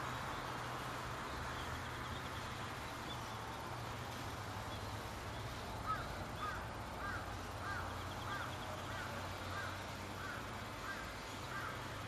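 A bird calling about ten times in an even series, nearly two short calls a second, starting about halfway through, over a steady low hum.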